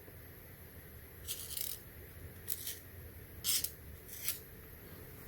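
Faint bench handling noises: four short, hissy scrapes or rustles over a low steady hum.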